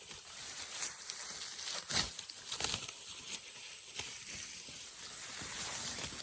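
Irregular rustling and crunching of grass and vegetation being handled or trampled, with a louder crunch about two seconds in, over a steady high-pitched drone of insects.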